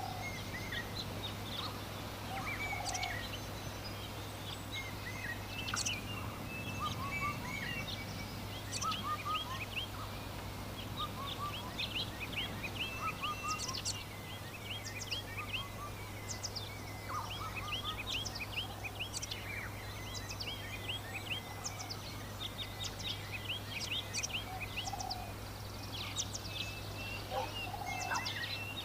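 Many birds chirping over one another in a continuous chorus of short, high chirps, with a few lower calls now and then. A steady low hum sits underneath.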